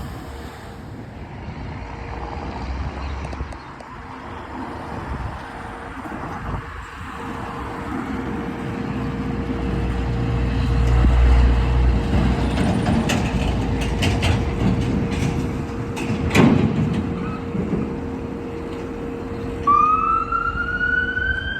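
Street traffic with a heavy vehicle's engine rumbling past, loudest about halfway through. Near the end an emergency vehicle's siren starts up with a rising wail.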